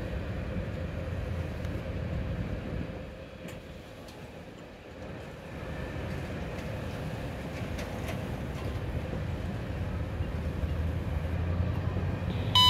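Low, steady rumble of a slow CSX freight train out of view, dipping a few seconds in and then slowly building. At the very end a scanner radio opens with a short tone, ahead of an automated defect-detector announcement.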